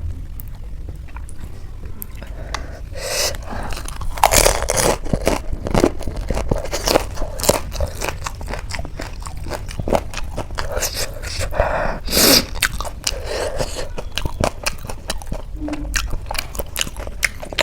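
Close-miked biting and chewing of crunchy snack food: irregular crisp crunches and wet chewing. The crunches are loudest about three, four and a half, and twelve seconds in.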